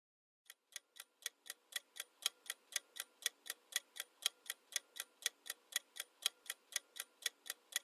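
Clock-ticking sound effect counting down the guessing time: sharp, even ticks at about four a second, starting about half a second in.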